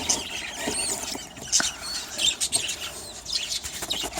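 Budgerigar chicks in a nest box giving short, high squeaking chirps, with scattered light clicks and taps.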